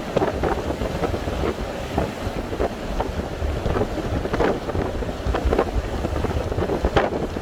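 Strong wind buffeting the microphone in rapid gusts, over the rush of heavy sea surf.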